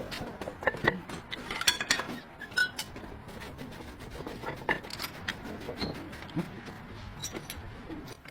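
Hand tools and metal parts clinking and tapping in scattered light strokes, with a few sharper knocks among them.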